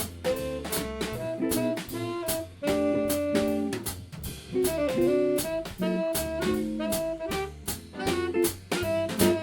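Live jazz band playing: a saxophone melody over a drum kit keeping a steady beat, with a low bass line underneath.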